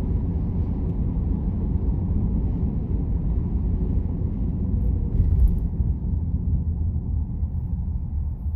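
Low, steady rumble of a car's road and engine noise while driving, easing off over the last couple of seconds as the car slows toward a traffic light.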